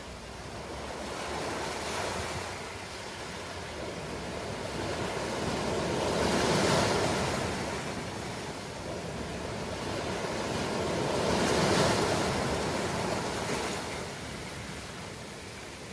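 Ocean waves breaking on a shore and washing back, two larger waves cresting about six and twelve seconds in.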